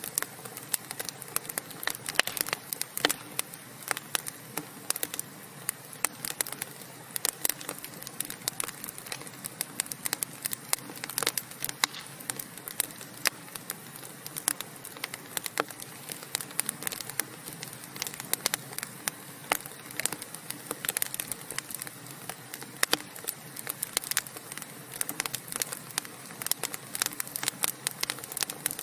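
Wood fire burning in a fireplace: many irregular crackles and pops over a steady soft hiss.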